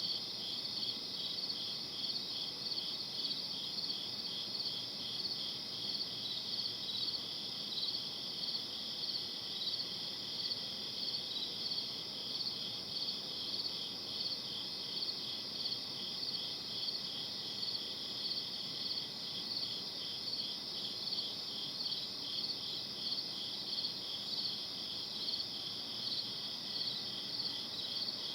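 A night chorus of crickets chirping: a steady high-pitched trill with evenly repeating pulses, over a faint low background hiss.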